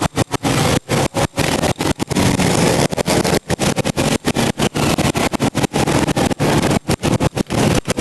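Racing motorcycle engines running hard, a loud dense noise that keeps cutting out for split seconds many times over.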